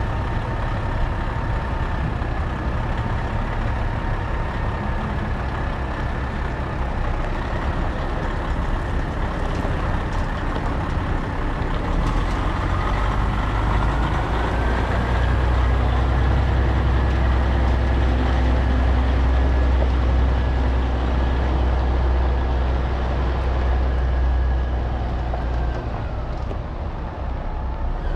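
Heavy truck engine running, growing louder for about ten seconds in the middle as it pulls, then easing off near the end. A high whine rides on it, climbing as the engine pulls and falling away when it eases.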